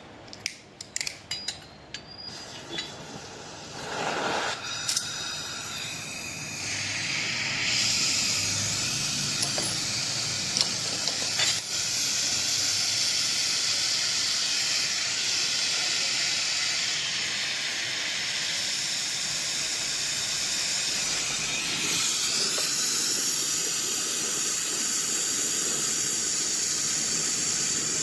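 Compressed nitrogen hissing as it is blown through a deep freezer's cooling coil to flush out a blockage. The hiss builds a few seconds in and then holds steady, after a few sharp metallic clicks at the start.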